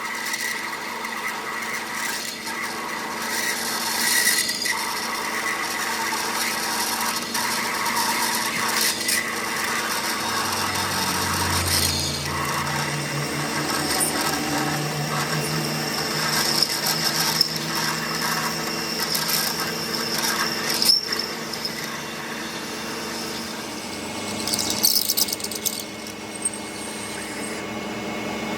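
Workshop power tool running steadily as the gear is worked, with scraping and squealing from the tool on the workpiece and a few sharper scrapes along the way.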